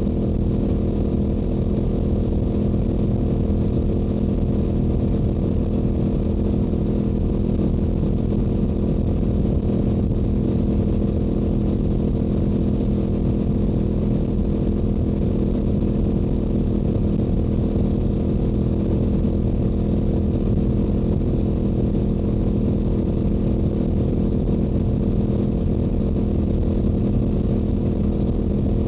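Stock Yamaha R7's 689 cc parallel-twin engine and exhaust holding a steady highway cruise: one even note with no revving, under wind noise.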